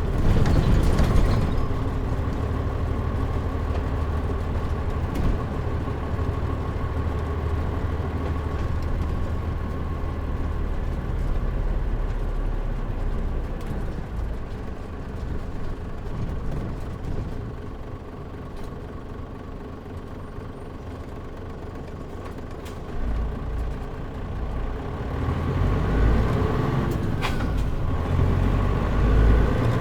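Inside the cabin of a Mitsubishi Fuso KL-MP37JM non-step city bus under way: the diesel engine and drivetrain drone steadily, the engine note fading about halfway through. Low thumps and rattles come in near the end.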